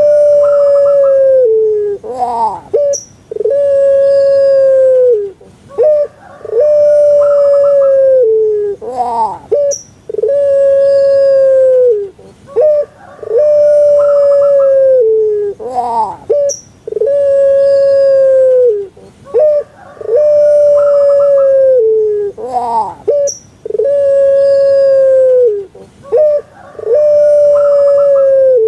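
A puter pelung, a Javanese song breed of domestic dove, cooing over and over: about nine calls, one every three and a half seconds. Each call is a short, clipped opening followed by a long, loud held coo that drops in pitch at its end. Faint higher chirps sound between the calls.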